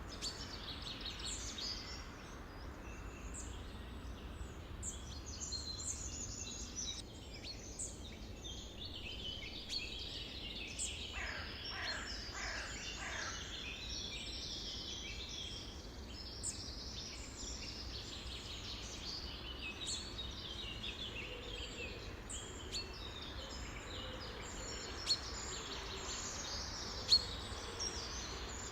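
A chorus of many songbirds chirping and singing over one another, with a run of falling notes near the middle and a few sharp, louder notes near the end, over a steady low rumble.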